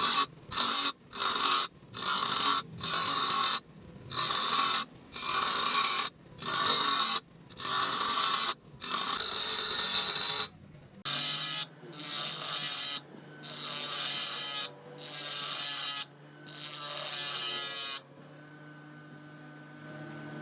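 Fridge compressor cutting machine cutting into a compressor's shell in short bursts of about a second, with brief pauses between them. The bursts stop near the end, leaving a faint steady hum.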